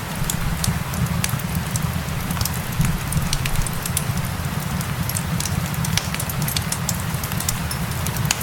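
Crackling fireplace with many small sharp pops, layered over a steady low rumble and the even hiss of rain.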